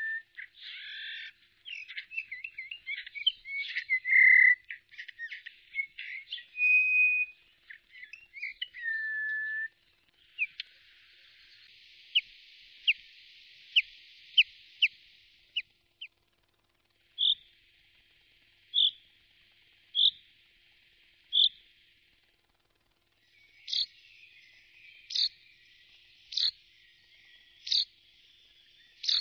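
Wild birds singing: a varied song of whistles, trills and slurred notes for about ten seconds, then, after a short break, series of single sharp whistled notes repeated roughly every second or so, as several separate recordings follow one another.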